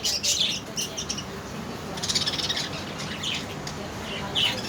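A flock of budgerigars chirping and chattering in an aviary, many short high chirps overlapping in bursts.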